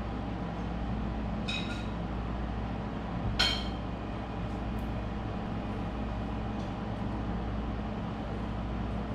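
A few light clinks of a utensil against dishes, the loudest one about three and a half seconds in, with a short ring, over a steady low hum.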